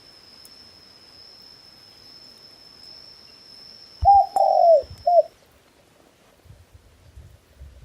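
A dove cooing three notes starting about four seconds in: a short note, a longer one that falls in pitch, then another short one. Under it a thin, steady high-pitched tone stops after about five seconds.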